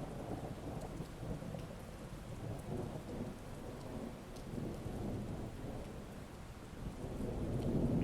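Heavy rain with a continuous low rumble of rolling thunder, which swells near the end.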